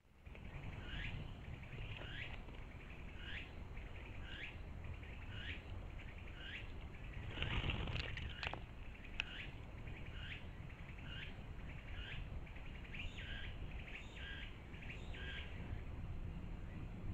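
A bird calling repeatedly: short, high notes that drop in pitch, about one a second, coming in quicker pairs near the end. About halfway through there is a brief noisy flurry, the loudest moment.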